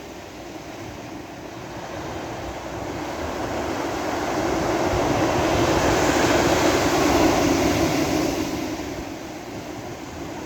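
Sea waves washing onto a beach: a wave's rush swells over a few seconds, peaks past the middle, then eases off as it draws back.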